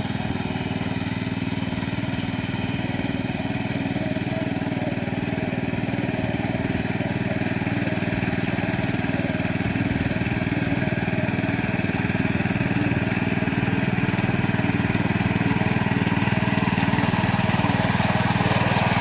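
Small engine of a power weeder running steadily, growing gradually louder toward the end.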